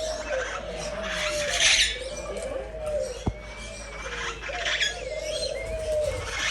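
Birds in an aviary calling together: a steady run of short, repeated gliding calls, with a loud harsh squawk twice and a single sharp click about halfway through.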